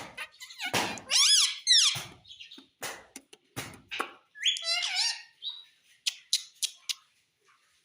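Pet parrot calling and chattering: a run of squawks and warbling calls that sweep up and down in pitch, mixed with short sharp clicks.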